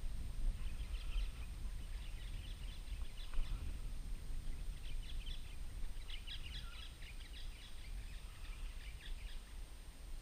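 Birds chirping in scattered runs of short, quick high notes, over a steady low rumble.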